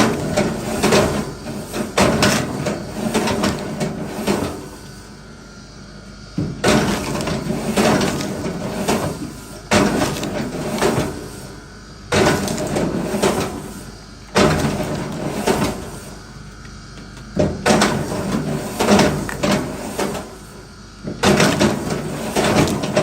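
Wood being struck and split: bursts of several sharp knocks and cracks, a new burst every three to four seconds with short quieter pauses between.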